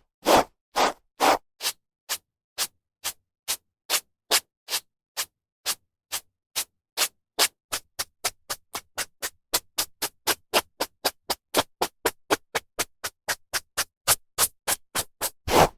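Hairbrush strokes through hair: short brushing swishes with silence between them. They come slowly at first and quicken to about four a second, with a few longer, louder strokes near the end.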